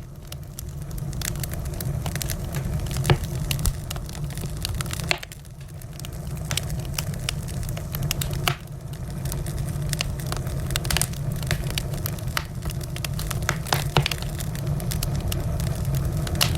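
Wood fire crackling: many sharp pops over a steady low rumble, with a few louder snaps about three, eight and fourteen seconds in.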